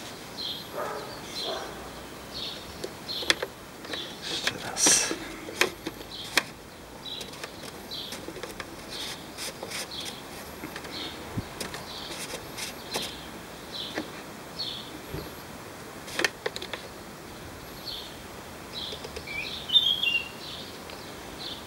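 Small birds chirping over and over, with a few sharp clicks and rustles as the plastic power-steering reservoir cap and dipstick are handled and wiped with a paper towel.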